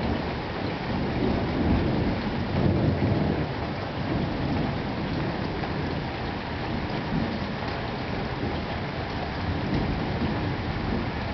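Thunderstorm: steady rain falling, with a low rumble of thunder that swells over the first few seconds and then dies away.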